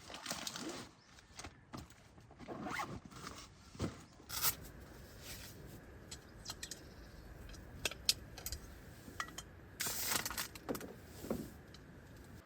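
A zipper pulled several times in short strokes, with scattered handling clicks and rustles between them and a longer burst of zipping near the end.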